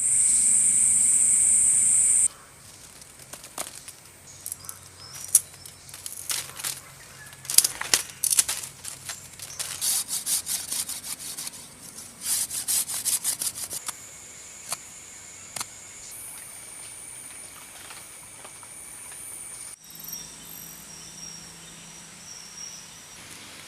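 Insects shrilling steadily in the background, loud and high for about the first two seconds, with a long run of sharp clicks and short scraping strokes in the middle.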